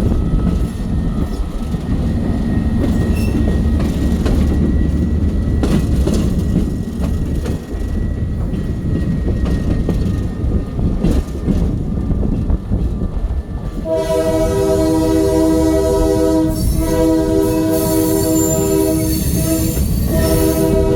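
Train rolling along with a steady low rumble of wheels on rails and scattered clicks. About two-thirds of the way in, a locomotive's multi-chime air horn sounds, a chord of several tones, in two long blasts and the start of a third.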